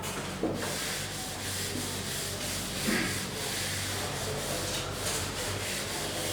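Writing strokes rubbing and scratching on a board, continuous and irregular, over a steady low hum.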